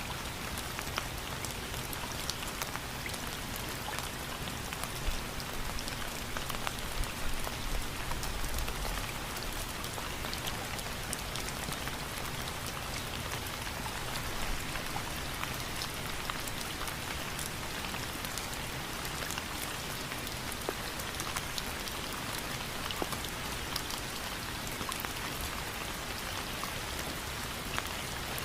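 Steady rain falling, an even hiss with many individual drops ticking through it; a few louder drops come around five to eight seconds in.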